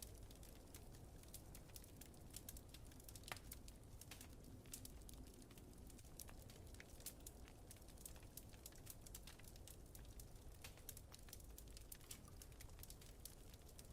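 Wood fire crackling softly, a steady scatter of small sharp pops with a louder one about three seconds in, over a faint low rumble of wind.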